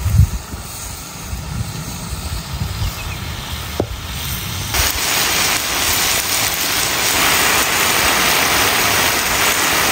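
A low rumble at first, then, about five seconds in, a loud, dense sizzle of frog pieces frying in a hot wok with chillies and lemongrass.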